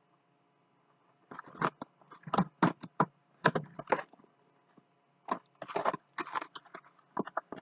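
Packaging rustling and crinkling in irregular crackles and short scrapes, starting about a second in, as the car vacuum's parts are taken out of the box.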